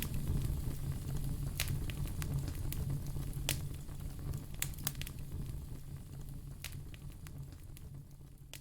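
Wood fire in a fireplace crackling, with scattered sharp pops over a low steady rumble, fading gradually toward the end.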